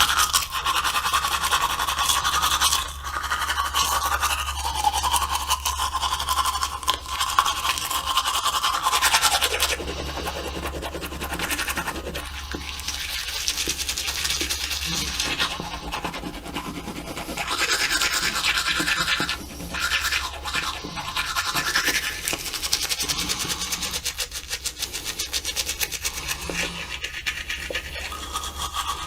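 Toothbrush bristles scrubbing against teeth in rapid back-and-forth strokes. The brushing pauses briefly a few times, then picks up again.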